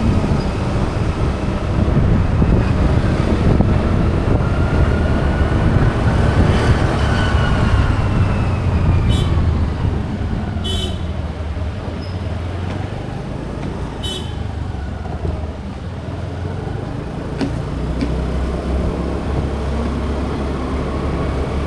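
Road traffic: a loud, steady low rumble of vehicles and moving air, with three short vehicle horn toots in the middle.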